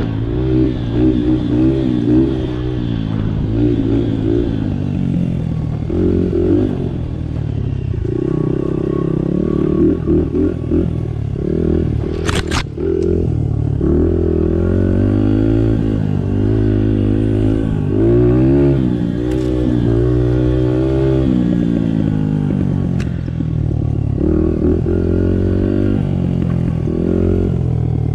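Small Honda 50cc dirt bike's four-stroke single-cylinder engine running under the rider, its pitch repeatedly rising and falling as the throttle opens and closes over rough ground. There is a sharp knock about halfway through.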